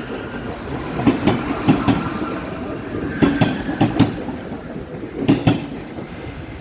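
Subway train running past, its wheels clacking over rail joints in quick pairs every second or so over a steady rumble.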